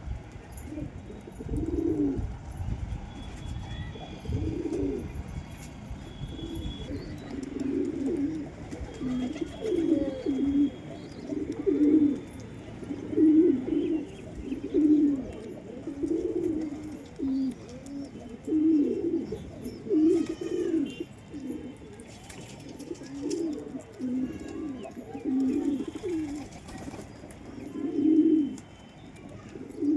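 Domestic pigeons cooing over and over, a low call roughly every second, with a few faint high chirps now and then.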